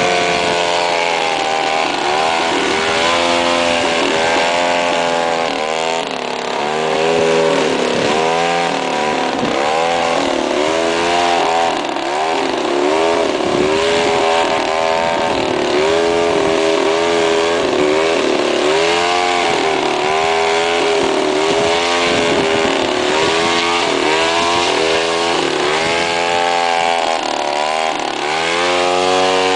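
Small 180 cc Torch engines revving, more than one at once, their pitch climbing and dropping every second or two as they accelerate and ease off, with a sharp climb near the end.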